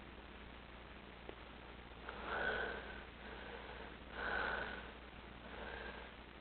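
Sniffing: two louder sniffs, each about a second long, the second about two seconds after the first, with fainter sniffs between.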